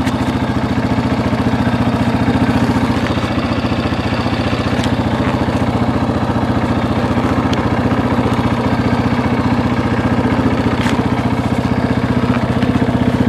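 Honda CRF230F dirt bike's air-cooled four-stroke single-cylinder engine idling steadily once warmed up after a cold start, with a few light clicks on top.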